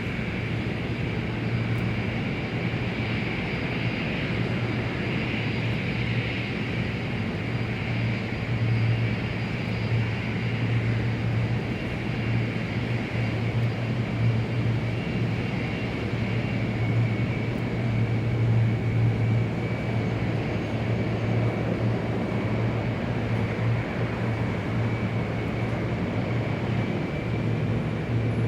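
Airport ambience dominated by the steady drone of jet aircraft engines: a low hum with a thin high whine above it, unbroken throughout.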